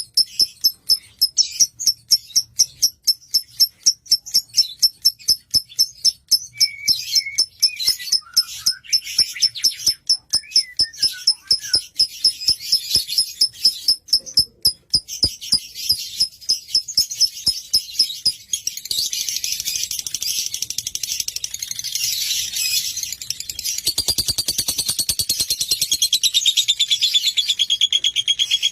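Lovebird calling: a long run of sharp high chirps, about three a second, that turns after about 19 seconds into a continuous rapid chattering trill.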